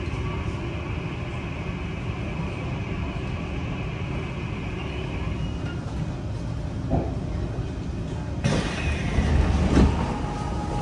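Kawasaki C151 train car with PMSM traction motors rolling slowly to a stop, with a steady low rumble and a faint high whine that fades out about halfway. There is a knock just before seven seconds in; about eight and a half seconds in the doors open and a louder, hissier platform sound comes in.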